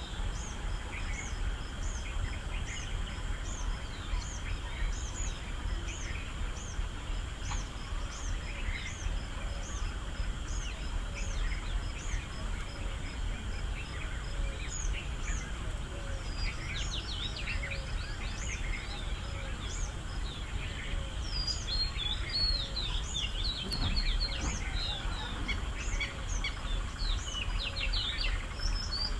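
Birds calling: one short, high chirp repeats evenly a little under twice a second, and from about halfway through other birds join with a busier run of varied chirps. A steady low rumble runs underneath.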